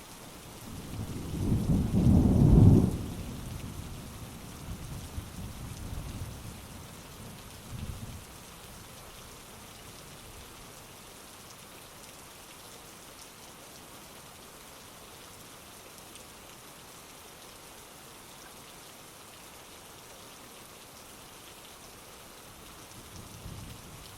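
Heavy rain falling steadily, with a loud roll of thunder about a second in that peaks and fades away in smaller rumbles over the next several seconds. A faint distant rumble comes again near the end.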